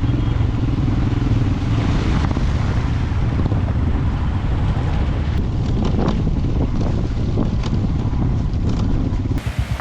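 Royal Enfield motorcycle engine running as it rides through a stream crossing, with water splashing in short bursts about halfway through. Near the end the sound switches abruptly to a closer, pulsing engine note.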